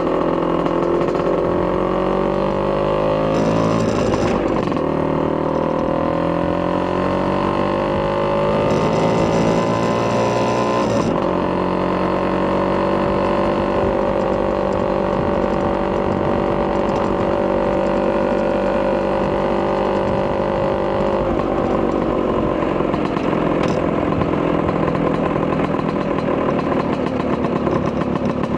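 Vespa PX200 two-stroke single-cylinder engine, enlarged to 210cc with a Polini kit and breathing through an expansion chamber exhaust, pulling through the gears on the move. The pitch climbs, drops at a gear change about four seconds in, climbs again to a second change about eleven seconds in, then holds steady at cruising speed. It eases off to a lower steady note about two-thirds of the way through.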